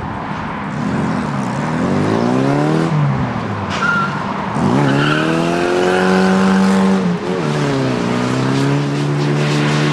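Mini Moke's BMC A-series four-cylinder engine revving hard, its pitch climbing and falling again and again as it accelerates and lifts off around the cones, with sharp drops in revs about three and seven seconds in. A short tyre squeal about four seconds in.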